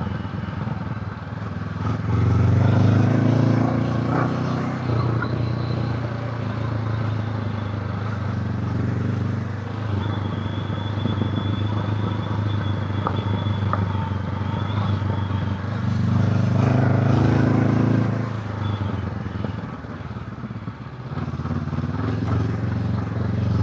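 Honda CB500X parallel-twin engine running while being ridden, swelling louder as the throttle opens about two seconds in, again around sixteen seconds and near the end.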